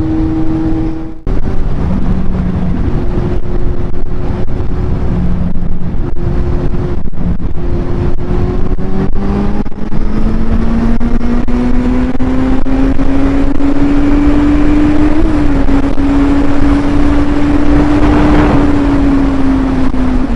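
Kawasaki Z800 inline-four motorcycle engine running at road speed, with wind rushing over the microphone. The engine note holds steady, then rises gradually as the bike accelerates, levels off, and eases a little near the end.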